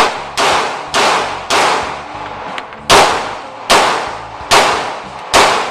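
Gunshots fired one at a time, about eight at uneven spacing of half a second to a second and a half, each followed by an echoing tail.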